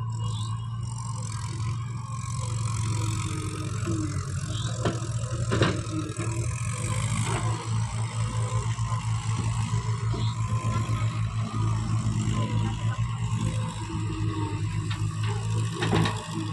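Heavy diesel vehicle engine running, with a steady low hum that turns into a fast, uneven pulsing about six seconds in. A few sharp knocks come through near the middle and again near the end.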